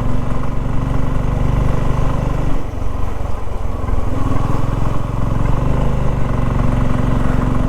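Motorcycle engine running under way, with a steady pulsing note. It eases off briefly about two and a half seconds in, then picks up again.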